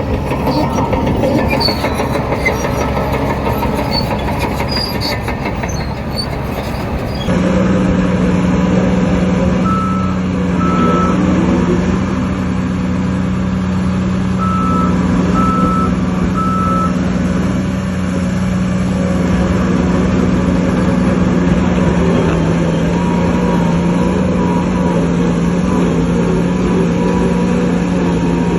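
Heavy diesel earthmoving machinery at work. For the first several seconds there is a noisy clatter with metallic squeaks and clicks. After an abrupt change it becomes a steady engine drone with a reversing alarm beeping in short runs.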